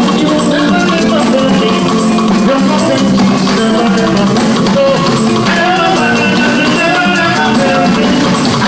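Live band playing instrumental music, with a shaker rattling and drums under held melodic notes.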